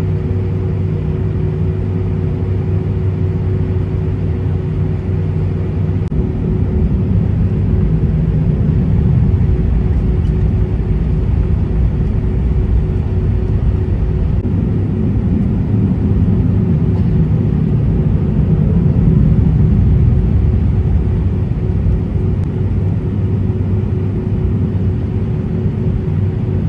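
Cabin noise of an Airbus A320-232 with IAE V2500 engines: a steady low rumble of engines and airflow with a constant hum over it, swelling louder twice.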